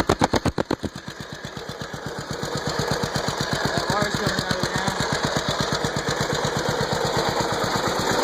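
Riding mower's small engine running on its first start after being flooded with water. Loud, evenly spaced exhaust beats drop away about a second in, then the engine builds back to a steadier, faster run.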